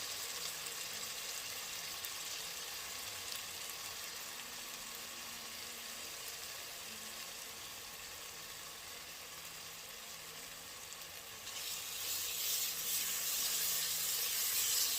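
Vegetables sizzling in melted margarine in a soup pot, a steady hiss that grows louder about eleven and a half seconds in.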